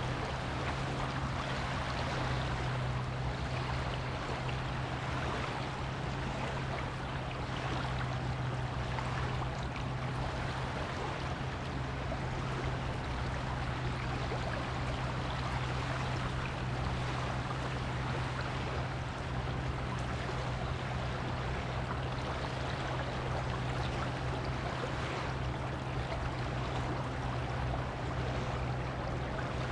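Surf washing onto a beach: a steady rush of waves that swells a little now and then, over a constant low hum.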